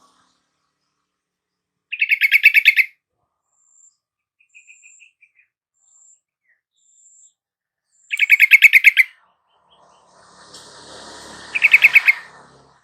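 Yellow-vented bulbul (trucukan) calls used as a lure recording: three loud, rapid chattering bursts of about ten quick repeated notes each, a few seconds apart. Faint thin high notes sound between them, and a rush of background hiss comes up near the end.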